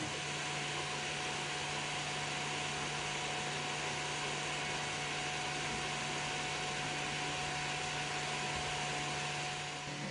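Steady whirring of a small fan, with a constant whine and a low hum underneath, unchanging in level throughout.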